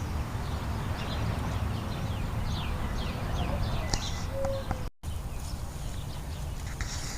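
Small birds chirping: a quick series of short, falling chirps over a steady low rumble, with a brief dropout about five seconds in.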